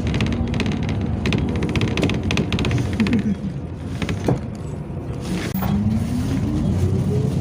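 Yutong ZK6118HGA city bus running, heard from inside, with a quick run of rattles and clicks over the first three seconds. After a brief dip about two-thirds of the way in, a drivetrain whine rises steadily in pitch as the bus gathers speed.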